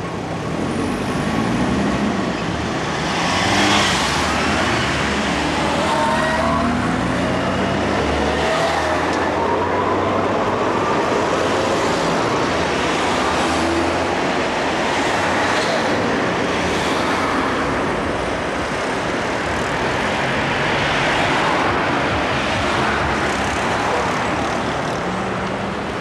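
City street traffic: motor vehicles running and pulling away, with several rising engine or motor whines in the first ten seconds and louder swells as vehicles pass.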